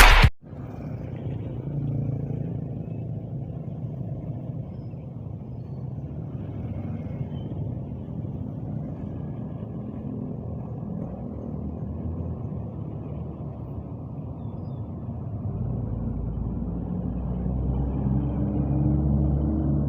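Bus engine running with a steady low rumble, growing louder and slightly higher in pitch over the last few seconds.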